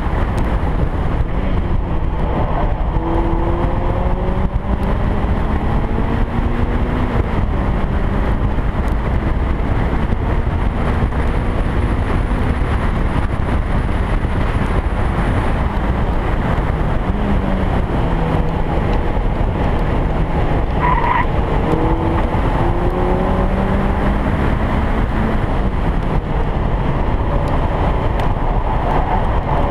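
A car at speed on a race circuit, heard from an onboard camera on its bodywork: the engine note climbs slowly and drops at each gear change, over heavy wind and road noise.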